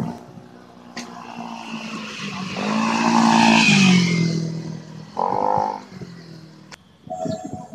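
A motor vehicle's engine passing close by, loudest about three to four seconds in, its pitch dropping as it goes past.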